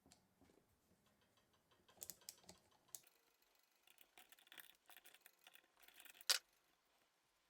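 Faint scattered clicks and short light scrapes of handling, with one sharper click about six seconds in.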